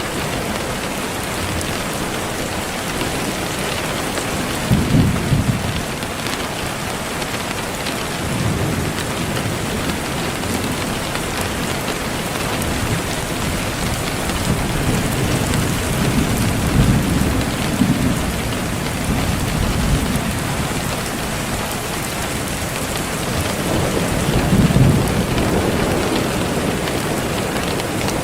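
Steady rain, with low rumbles of thunder swelling up several times.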